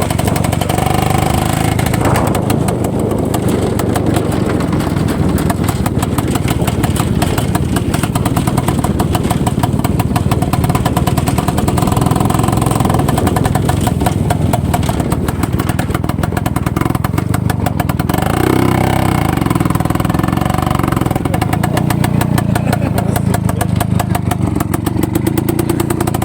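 IZH-49 motorcycle's single-cylinder two-stroke engine running steadily, its exhaust a rapid, even train of pulses with the pitch shifting a little as the throttle changes.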